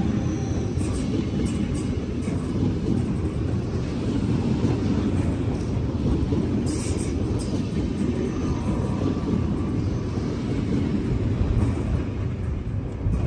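Electric multiple unit train of the DB Class 424/425/426 family running, a loud, steady, low rumble with a faint whine about two-thirds of the way through.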